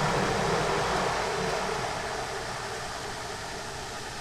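A 5th-gen Toyota 4Runner's engine running steadily just after being cranked and started with a new battery, a dense even rumble whose level eases slowly.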